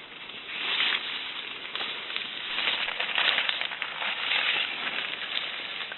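Wood fire crackling in a Dakota fire pit: a hissing rush dotted with many small pops, swelling and easing in patches.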